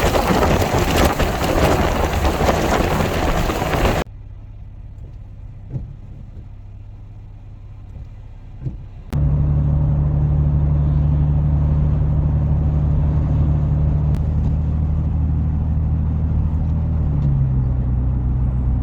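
A loud rushing noise that cuts off abruptly after about four seconds. Then comes a quieter stretch, and from about nine seconds in a car engine running steadily, a low even hum that drops slightly in pitch near the end.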